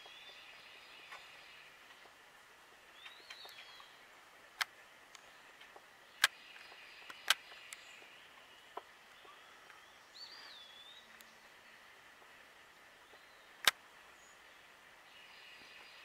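Outdoor birdsong. Faint distant birds call throughout, and a bird gives short slurred whistled notes about three seconds in and again about ten seconds in. Several sharp clicks are the loudest sounds.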